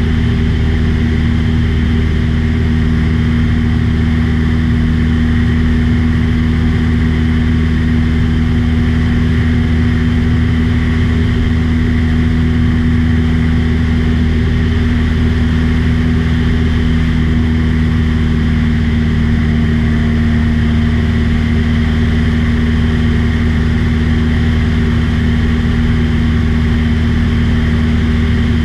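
Small airplane's engine and propeller droning steadily at cruise, a loud low hum with no change in pitch.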